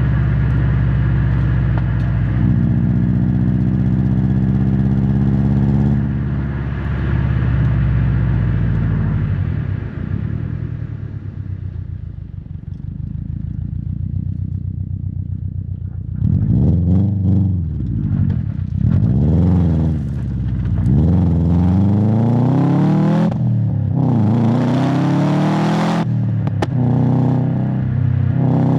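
Exhaust of a 2016 Subaru WRX STI's EJ257 2.5-litre turbocharged boxer four-cylinder engine: it pulls at a steady pitch, eases off into a quieter, lower note, then from about halfway through revs rise and fall repeatedly, with a few sharp cracks near the end.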